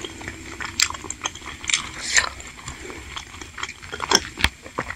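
Close-miked chewing of a chewy tapioca meatball (bakso aci) in spicy broth, with scattered wet mouth smacks and short sharp clicks.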